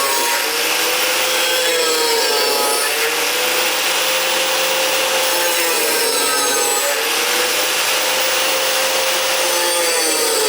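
An angle grinder cutting slots in metal: a loud, steady whine and grinding rush whose pitch sags and recovers every few seconds as the wheel is pushed into the cut.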